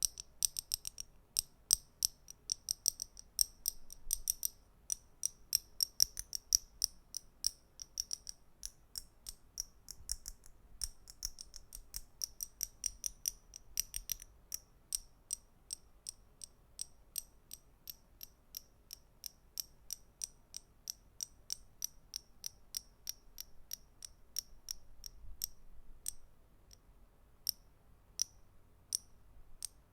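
Small object clicked over and over by hand: a quick series of sharp, high clicks, several a second, thinning out to a few spaced clicks near the end.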